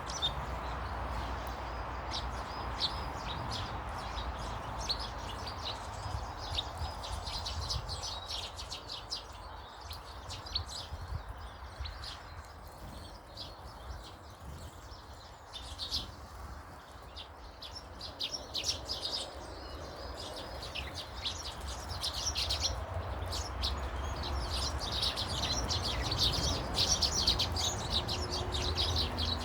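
Small birds chirping and twittering, many short high calls overlapping, busiest in the last few seconds, over a low steady rumble.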